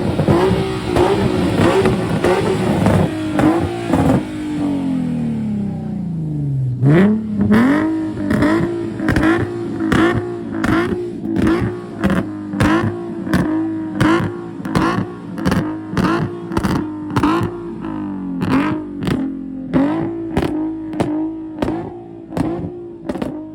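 Lifted truck's engine held at high revs during a burnout, with tyre hiss, for about six seconds. The revs then drop sharply and the tyre noise stops, and the engine climbs back up and is held high with quick repeated throttle surges about twice a second.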